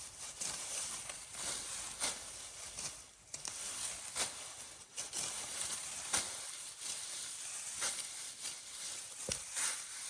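Dry plant stalks rustling, broken by sharp swishes or snaps about once a second.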